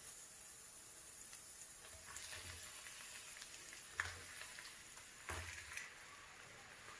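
Faint sizzling of food frying in a pan, with a sharp clink of a utensil about four seconds in and a short burst of stirring or scraping a little after.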